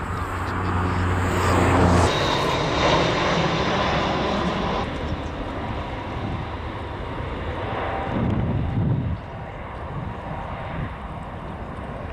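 Airbus A320 jet engines passing by, a loud rushing noise with a whine, loudest about two seconds in and easing off after about nine seconds.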